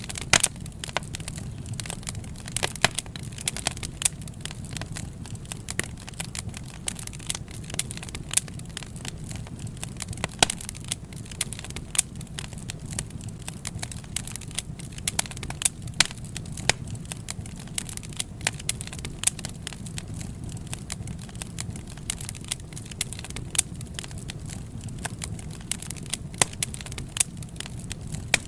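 Wood fire crackling, with frequent irregular sharp pops and snaps over a steady low rumble of the burning.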